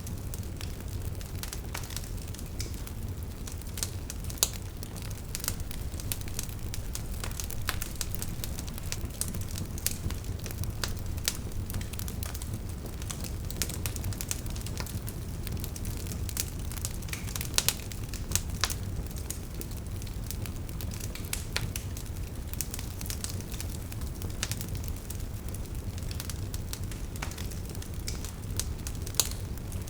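Wood fire burning steadily with a low rumble and irregular sharp crackles and pops from the logs.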